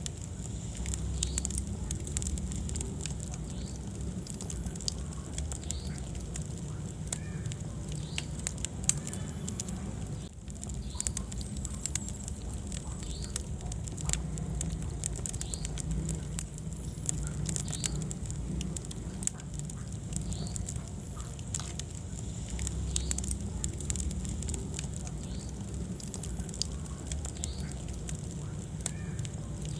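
Wood fire burning in a fireplace: many sharp crackles and pops over a low, steady rumble of flames, with occasional short high squeaks.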